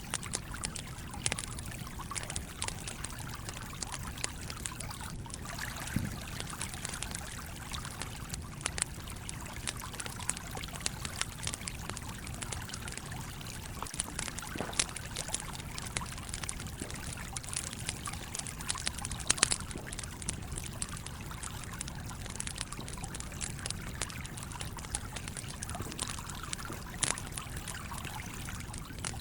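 A stream flowing steadily, with the crackle and pops of a wood campfire scattered throughout; a few pops stand out louder about two-thirds of the way through.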